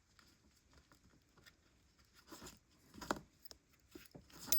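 Faint rustles and soft taps of hands handling a small crocheted piece and its yarn, with a few short handling sounds about halfway through and near the end.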